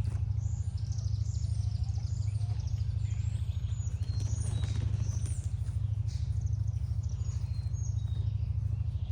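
Birds chirping and calling, with short high chirps scattered throughout, over a steady low hum that is the loudest sound.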